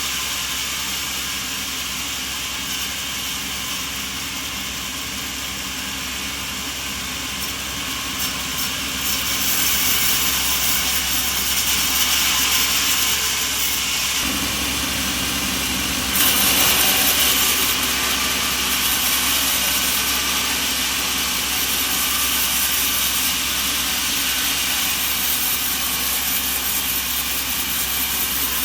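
Sawmill machinery running steadily, a motor-driven saw and its hum, growing louder about a third of the way in and stepping up abruptly just past halfway, as if a cut starts.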